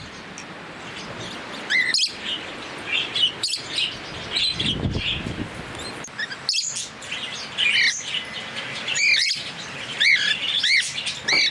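A mixed flock of small pet parrots (cockatiels, a lovebird, Bourke's parakeets and a budgie) chirping, with short arching calls repeated every second or so and a quicker run of calls near the end.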